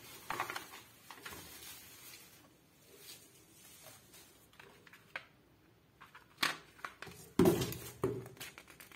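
Packaging of a boxed electric kettle being handled: scattered clicks, rustles and crinkles, with a louder flurry of handling noise about six and a half to eight seconds in.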